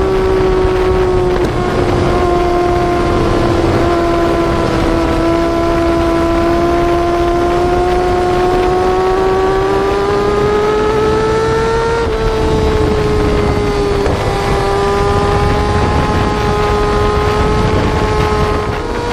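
Yamaha R6 inline-four sportbike engine held at high revs, a high steady wail whose pitch slowly climbs, then drops about twelve seconds in as if shifting up, and climbs again near the end.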